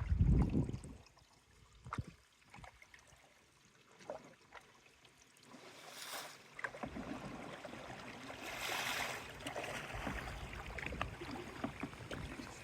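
Canoe being paddled: water rushing and splashing against the hull and paddles, with a dull thump at the start and a few sharp knocks, then a louder wash of water from about halfway, surging twice.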